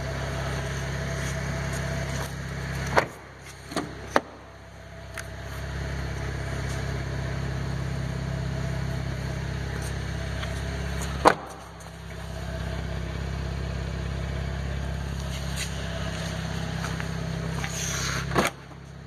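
Direct-injected V6 of a 2014 Cadillac ATS idling steadily, a low even hum through its aftermarket MagnaFlow rear muffler. Sharp knocks come about 3 and 4 seconds in, once near the middle and once near the end.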